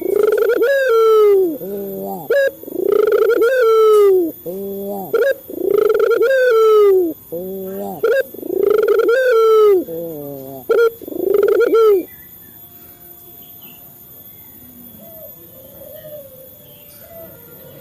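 Male ringneck (Barbary) dove, the Indonesian 'burung puter', cooing loudly in a rapid series of rolling, arched coos mixed with lower notes, stopping about twelve seconds in; after that only faint calls remain.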